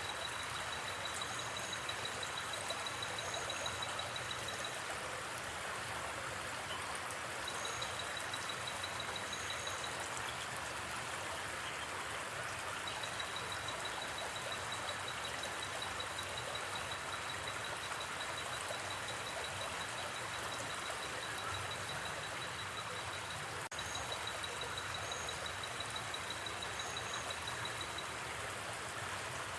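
Steady rush of a gently flowing river, with night insects trilling high and rapidly in stretches of several seconds, now and then joined by short paired high chirps. One faint click comes about three-quarters of the way through.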